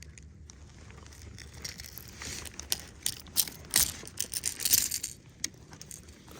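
Close handling noise: a run of crinkling rustles and sharp clicks, from about two seconds in until shortly before the end.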